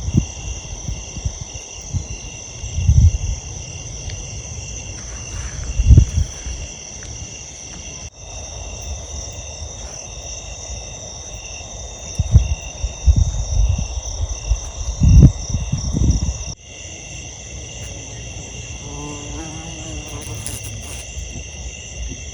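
A steady, high-pitched chorus of insects, interrupted by several loud low thumps and knocks.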